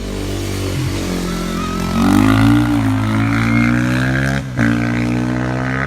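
Racing motorcycle engine running hard at high revs on a hill climb, growing louder about two seconds in. About four and a half seconds in, the engine note cuts out briefly and then picks up again.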